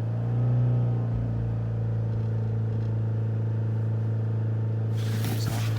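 Ford S-Max 2.0 TDCi four-cylinder diesel engine held at steady raised revs, lifting briefly about half a second in. The revs are kept up to raise exhaust temperature so the cleaning additive burns off a blocked diesel particulate filter. A hiss of noise joins near the end.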